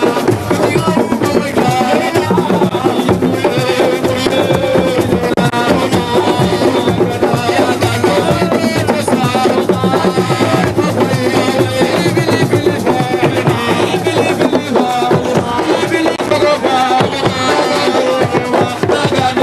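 Loud music driven by hand drums, with pitched instruments or voices layered over the beat.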